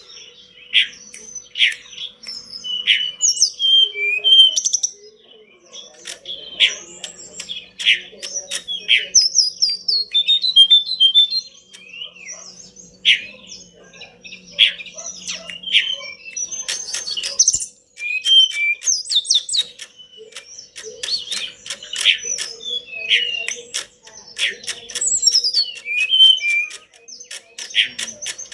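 Tledekan gunung, a small mountain flycatcher, singing in full voice: rapid high chirps and short whistled notes in quick runs, broken by brief pauses.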